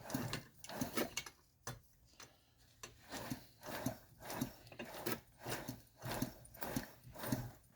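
Small Briggs & Stratton engine being turned over by hand again and again, a rhythmic run of short rasping strokes with clicks, about two a second, while it is checked for spark from its electronic ignition coil.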